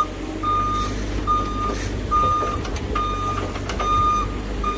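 Reversing alarm of a construction machine beeping at one steady pitch, a little faster than once a second, over the low rumble of its diesel engine running: the machine is backing up.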